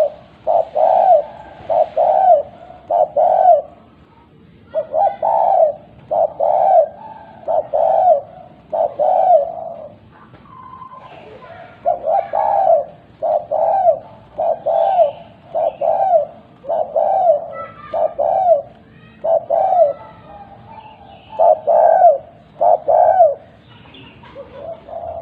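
Spotted dove (tekukur) cooing its two-note 'kuk 2' call over and over, about one coo a second in runs of three to eight, with short breaks between runs. Faint higher chirps sound behind the cooing.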